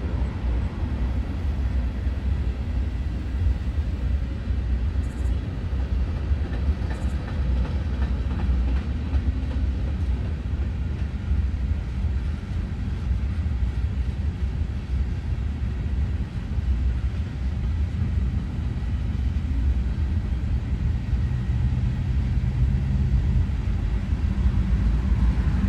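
Norfolk Southern freight train rolling past, a steady low rumble of wheels on rail.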